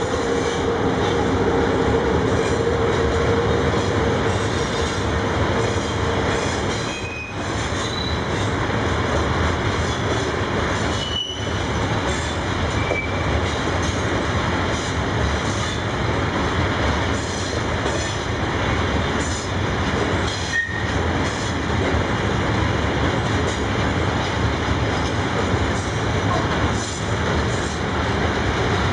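Freight train wagons rolling past on the rails, a loud steady rumble with a held tone over the first few seconds and several short, high wheel squeals through the middle.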